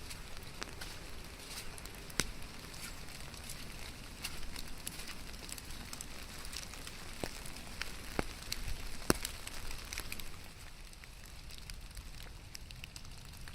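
Steady rain with scattered sharp, irregular drop ticks.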